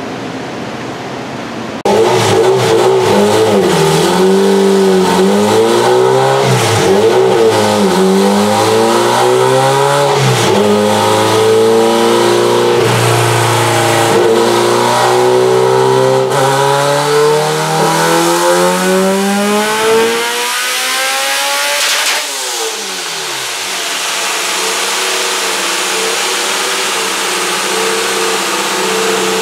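Car engine on a chassis dyno making a full-throttle pull. It comes in suddenly about two seconds in, wavers, then revs climb steadily for around ten seconds to a high pitch. The throttle then lifts, the revs fall away quickly, and the engine settles to a lower, steady note under a loud hiss.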